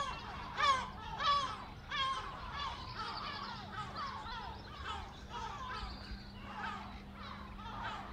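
A bird calling in a fast series of repeated cries, about two a second, loudest in the first two seconds and then going on more softly.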